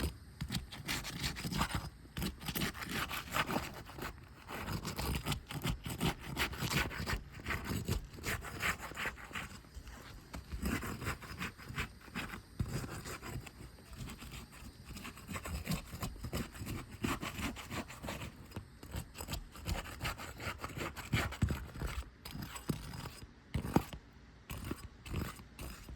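A flat metal tool worked under three-tab asphalt shingles to break their adhesive seal strips: repeated, irregular scraping and rubbing strokes with an occasional sharp click or crack.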